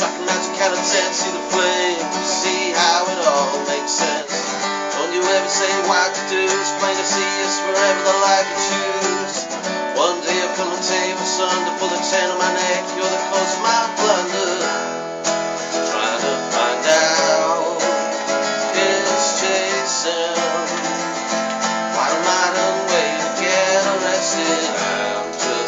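Acoustic guitar strummed and picked in an instrumental break between sung lines of a folk song.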